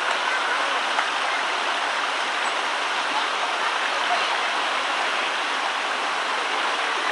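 Stream water rushing steadily over rocks, an even hiss with no change in level.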